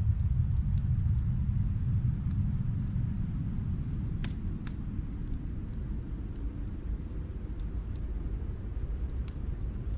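Fireplace crackling: scattered sharp pops and snaps, two louder ones about four seconds in, over a steady low rumble that eases slightly partway through.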